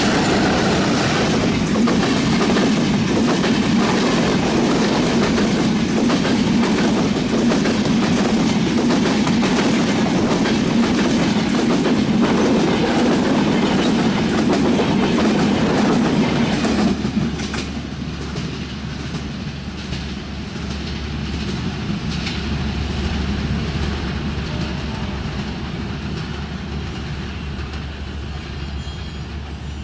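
Intercity passenger train coaches passing close by at speed, wheels clattering rapidly over the rail joints; about 17 seconds in the sound drops sharply as the end of the train goes by, leaving a fading rumble and a steady low hum as it moves away.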